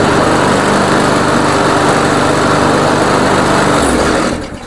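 Walk-behind lawn mower's 140cc Powermore engine running steadily, hot and with its air filter removed, then shutting off about four and a half seconds in. Without the filter it starts right away, where with it the engine refuses to restart when hot.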